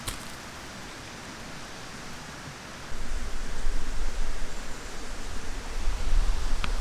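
Steady outdoor hiss, joined about three seconds in by a loud, unsteady low rumble. A brief click sounds at the start.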